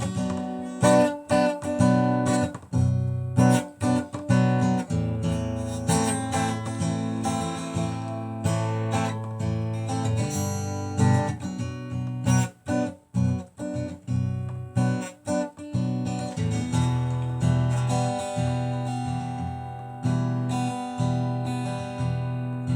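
Acoustic guitar strummed in chords: an instrumental stretch of a song, with a few short breaks in the strumming about halfway through.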